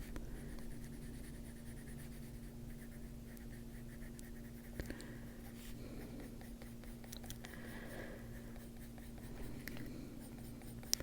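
Coloured pencil scratching softly on colouring-book paper in small strokes, over a steady low hum.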